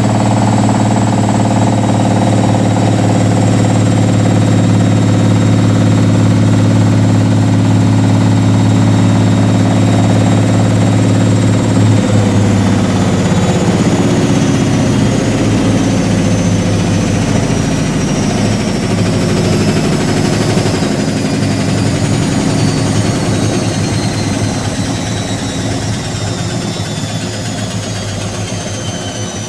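Whirlpool AWG023 H-axis top-loading washing machine on its final spin: a loud, steady motor hum and drum rumble that breaks up about twelve seconds in, then a high motor whine that falls steadily in pitch while the sound slowly dies away as the drum winds down.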